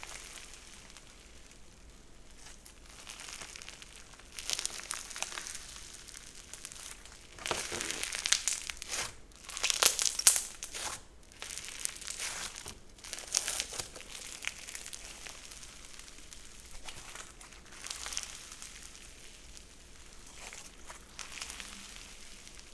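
Handmade slime being pressed, poked and stretched by hand, giving irregular bursts of small clicks and pops that are loudest about eight to eleven seconds in.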